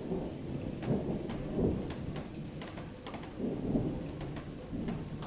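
Rain falling steadily, with scattered sharp drop clicks close by and a few short, irregular low rumbles.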